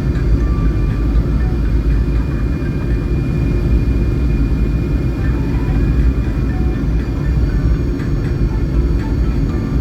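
Passenger airliner landing, with a steady, loud low rumble and no sudden changes.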